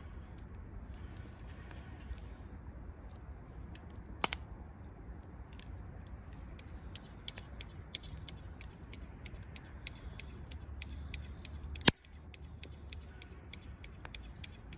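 Wood campfire crackling with scattered irregular pops and clicks over a low steady rumble; two much louder sharp snaps, one about four seconds in and one about twelve seconds in.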